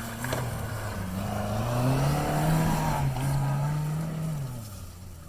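2005 Toyota Matrix's engine accelerating hard. The revs climb, dip briefly around three seconds in as it shifts, hold, then fall away near the end.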